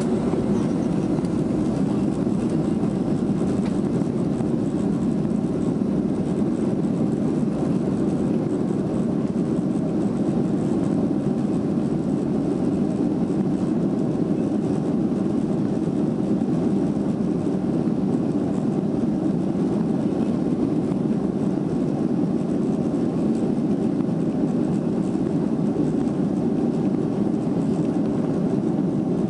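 Boeing 737-400 airliner with its CFM56-3 turbofan engines running at a steady, even pitch and level, heard as a constant low drone.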